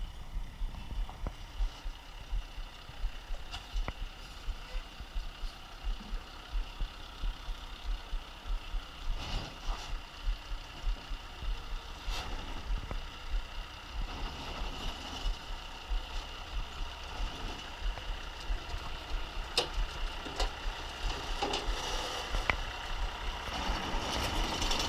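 A motor vehicle's engine idling, with a steady low pulsing throb.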